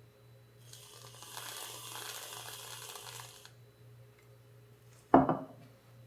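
Kitchen handling sounds: a crinkling rustle for about three seconds, then one sharp clunk with a short ring about five seconds in, over a steady low hum.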